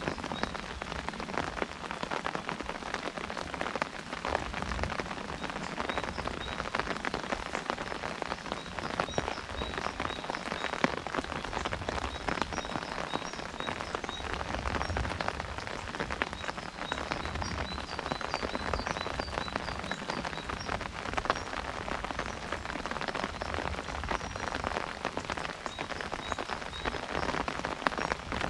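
Steady rain drumming on an umbrella canopy, a dense patter of many small drop impacts that keeps up evenly throughout.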